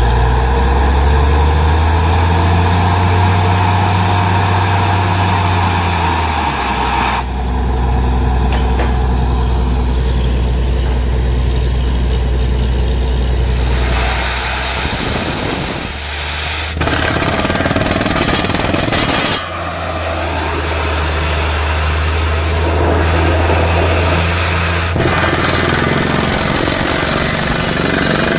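Truck-mounted borewell drilling rig running: a steady low engine drone under the rattling hiss of compressed-air down-the-hole hammer drilling. The higher hammering noise drops away for several seconds about a quarter of the way in and returns about halfway through.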